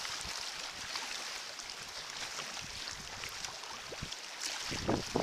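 Water splashing and trickling around a sea kayak on the move, with gusty wind starting to buffet the microphone near the end.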